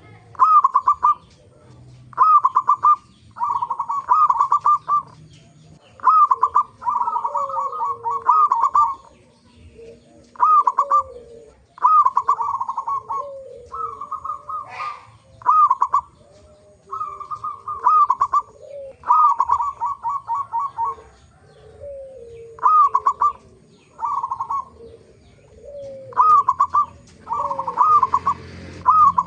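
Zebra doves (perkutut) cooing: short, rapid stuttering coo phrases repeated every second or two, with lower sliding notes between them.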